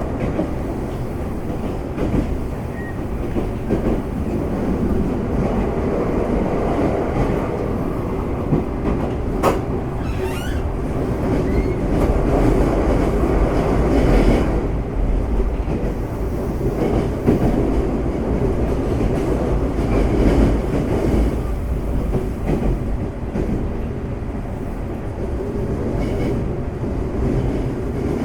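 Interior running noise of a Semboku Rapid Railway 5000 series electric train at speed: a steady rumble of wheels on rail with clattering and occasional sharp clicks.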